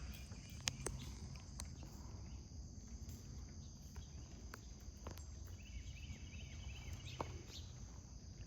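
Steady high-pitched insect drone, with a few scattered sharp clicks and a short run of chirps about six seconds in.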